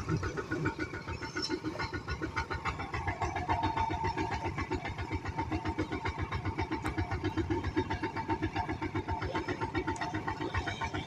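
Engine running steadily, with a fast, even beat of firing strokes.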